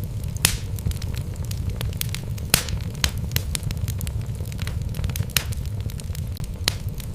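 Wood fire burning in a fireplace: a steady low rumble with frequent sharp crackles and pops from the burning logs, a few of them louder than the rest.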